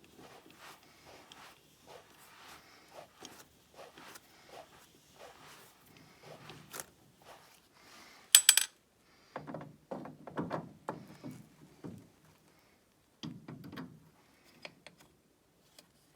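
Steel gearbox parts being handled and fitted by hand: small clicks and scrapes, with one sharp metallic clink about eight and a half seconds in and a run of knocks and rattles after it.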